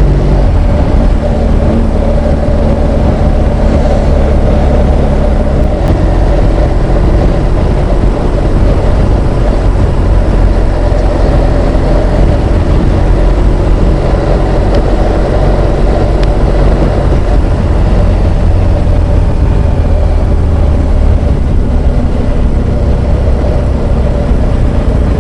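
BMW R1200GS Adventure boxer-twin engine running steadily while the bike is ridden, under a constant rush of wind and road noise. The engine note shifts in pitch a few times.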